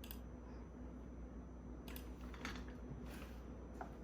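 Quiet room tone: a low steady hum with a few faint, short clicks scattered through it.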